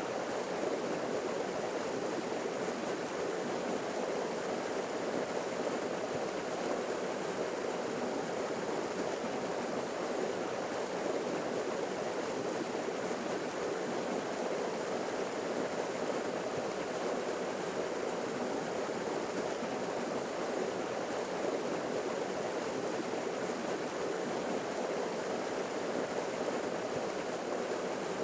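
Forest waterfall rushing steadily: an even, unbroken wash of falling and splashing water.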